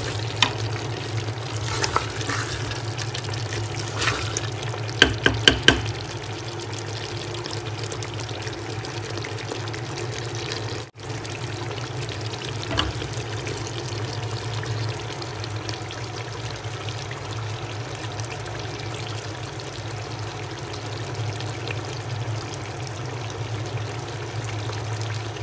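Mutton and potato curry sizzling steadily as it fries in a metal pot, at the stage of frying until the oil separates. A wooden spatula knocks and scrapes against the pot several times in the first six seconds, over a steady low hum, and the sound briefly cuts out about eleven seconds in.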